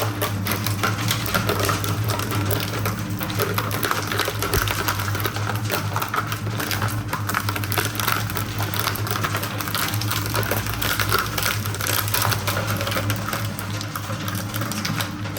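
Industrial shredder running with a steady low hum while its cutters crunch through material in a dense, rapid crackle of clicks and snaps.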